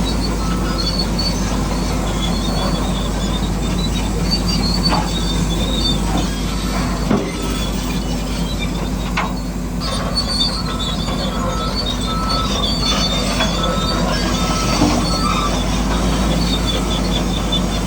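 Radio-controlled model construction machine running: a steady whine of electric motors and gears, with repeated high metallic squeaking and a few small clicks.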